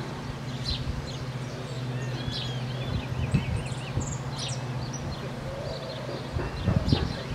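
Birds chirping and calling, with short arching calls repeated around the middle, over a steady low hum.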